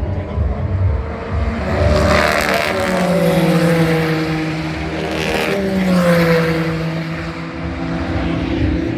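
GT race cars passing at speed, two pass-bys about three seconds apart, each engine note dropping in pitch as the car goes by.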